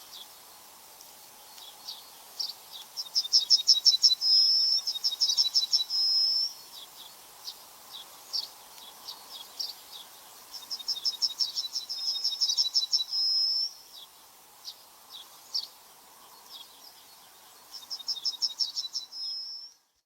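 A songbird singing three phrases, each a fast run of repeated high notes ending in one longer held note, over a faint steady background hiss.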